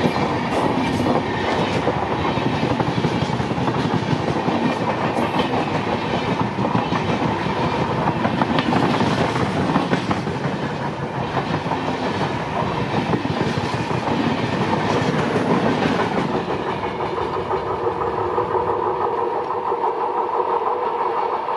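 Passenger coaches of an express train rolling past at close range, wheels clattering and rumbling on the rails. Near the end the sound thins to a steady hum as the last coach moves away.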